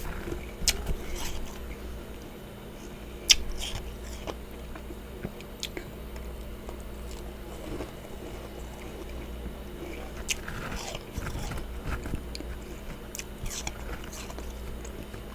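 Close-up biting and chewing of powdery freezer frost: scattered sharp crunches and clicks at irregular moments, the sharpest about three seconds in, over a steady low background hum.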